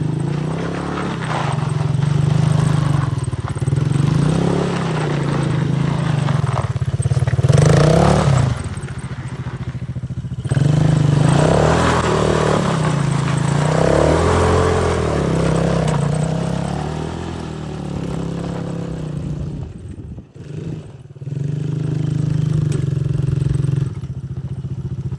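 Motoland Coyote 125 quad bike's small single-cylinder four-stroke engine running hard, its revs rising and falling over and over as the throttle is worked. The revs drop off sharply about ten seconds in and again near twenty seconds.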